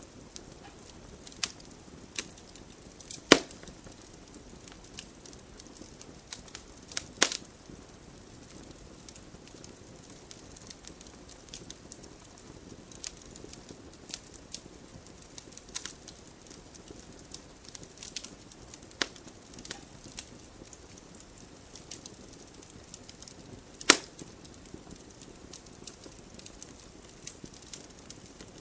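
Wood fire burning in a fireplace: a soft steady hiss under many small sharp crackles, with three louder pops, about three seconds in, about seven seconds in, and later on.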